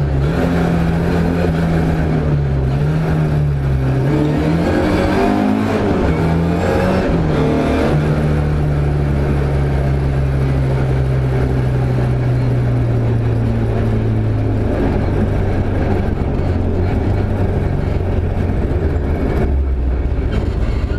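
Rally car's engine heard from inside the cabin, its pitch rising and falling with throttle and gear changes over the first several seconds. It then holds a steady note that slowly sinks, and drops lower about fourteen seconds in as the car eases off and slows.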